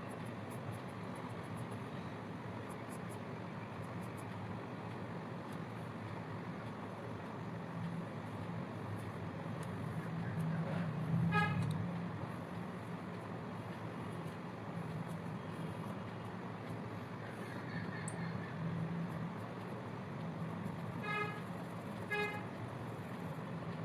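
Steady background traffic noise with a vehicle horn tooting briefly three times: once about halfway through, then twice a second apart near the end.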